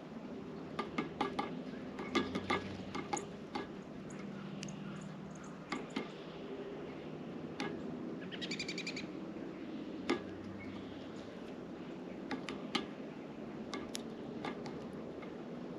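Birds at a feeder: irregular sharp taps and clicks of beaks pecking and seed being handled, with a short, fast trill of high bird notes about halfway through, over a steady low background hum.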